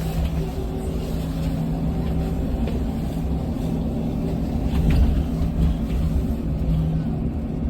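Electric bus driving, heard from inside the passenger cabin: steady road rumble with a low motor hum, and a few rattling knocks, the strongest about five seconds in.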